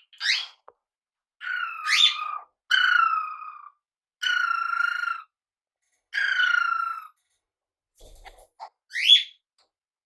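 Pet parrot calling, repeated whistled calls: four drawn-out ones of about a second each, with a short rising call at the start and another near the end.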